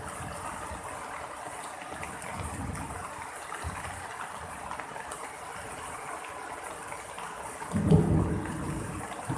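Steady rain falling during a thunderstorm. About eight seconds in, a sudden loud, low clap of thunder rumbles and fades.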